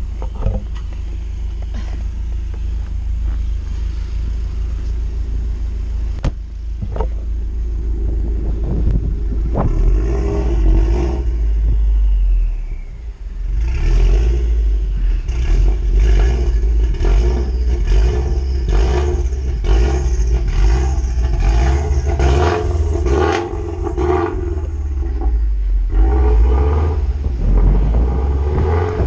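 A car engine running and revving while its tires spin in deep snow, trying to get unstuck. It grows louder and rougher about halfway through.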